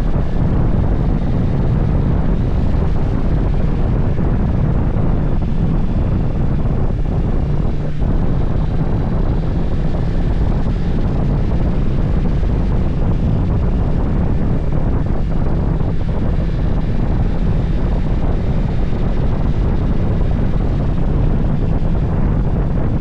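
Steady wind rush buffeting the microphone on a moving motorcycle, with a low, even engine drone underneath.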